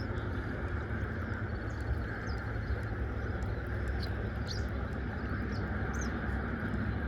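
Birds chirping in short, high, scattered calls over a steady outdoor hiss and low rumble.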